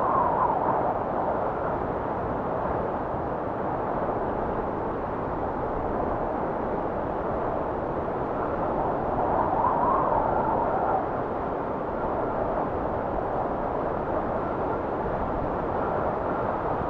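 Blizzard wind blowing steadily, with gusts swelling and fading about a second in and again around ten seconds in, carrying a faint rising and falling whistle.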